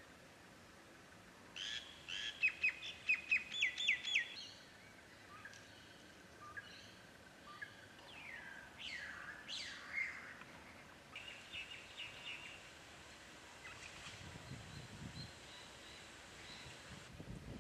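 Birds calling: a quick run of about ten sharp repeated notes about two seconds in, a few downward-sliding whistles around nine to ten seconds, then softer repeated chatter.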